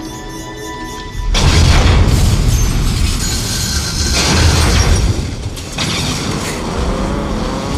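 Action-film soundtrack: music playing, then about a second in a sudden loud crash with heavy rumbling booms, a second loud stretch of crashing noise a few seconds later, and rougher running noise near the end.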